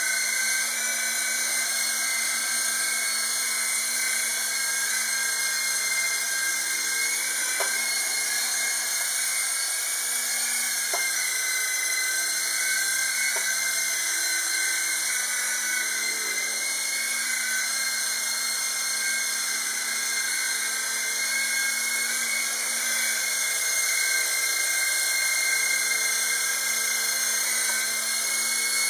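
Small RC helicopter's electric motors and rotors running, a steady high-pitched whine that holds an even level, with a few faint ticks.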